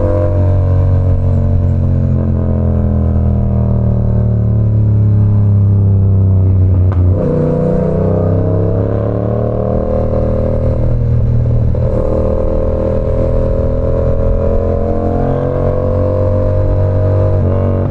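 Yamaha R7's parallel-twin engine running through an SC Project CR-T exhaust under way, a steady engine note that slowly changes pitch. The note breaks and shifts briefly about seven and twelve seconds in.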